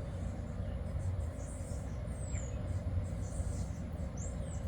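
Steady low outdoor background rumble, with a few faint, short, high falling chirps from birds.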